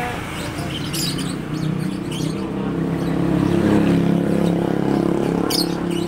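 Caged birds chirping in short high bursts, over the low hum of a passing motor vehicle engine that builds to its loudest about four seconds in.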